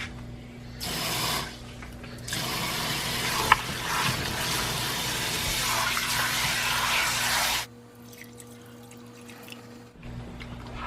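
Kitchen tap running into a sink: a short spurt, then a steady flow for about five seconds that cuts off suddenly when the tap is shut.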